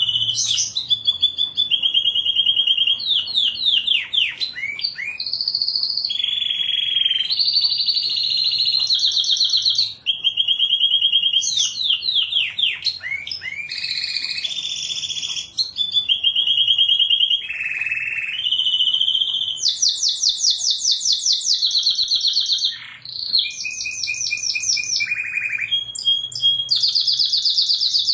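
Domestic canary singing without a break: rapid trills and rolls of repeated notes, each phrase held for a second or two before jumping to a higher or lower pitch.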